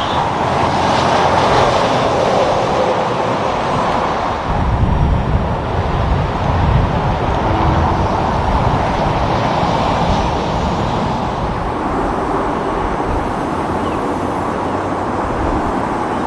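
Heavy trucks passing on a highway: steady tyre noise, with a deep engine rumble that swells about four seconds in and eases off after about ten.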